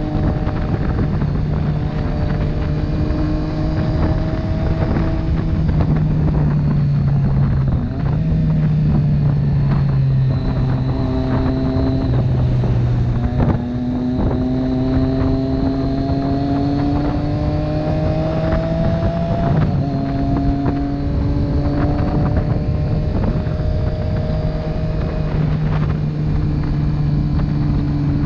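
Motorcycle engine running while riding, heard over wind buffeting the microphone. The engine note climbs steadily and drops abruptly a few times, as the bike accelerates and changes gear.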